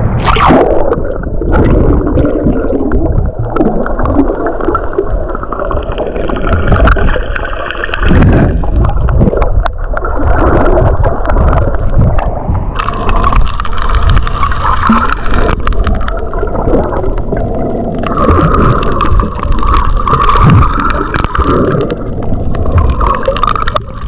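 Water gurgling and sloshing over the microphone, loud and continuous, with scattered sharp clicks.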